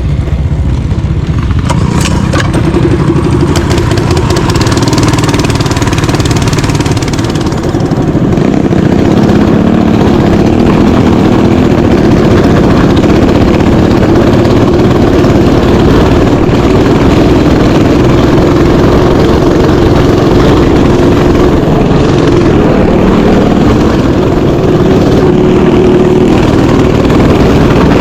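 Mini bike engine running hard and steady, louder from about eight seconds in.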